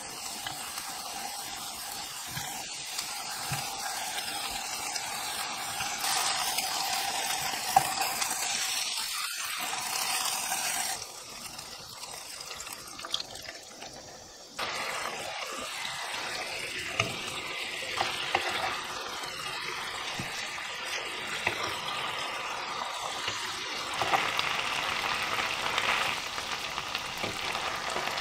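Chicken pieces sizzling as they pan-fry in a nonstick frying pan, with a spatula turning them. Quieter briefly from about 11 s, then from about 15 s the sizzling comes back as the chicken cooks in bubbling teriyaki sauce.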